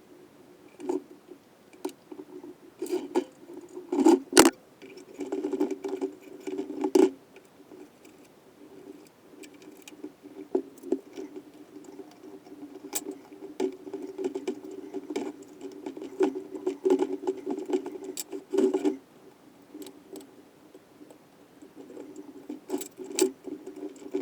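Small metal engine parts being handled and fitted by hand: irregular clicks, light taps and short scraping rattles, busiest in the first seven seconds and again around the middle.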